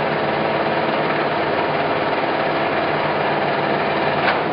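Clausing Colchester 17 x 80 engine lathe running steadily under power, its spindle and headstock gears turning, with one short click near the end.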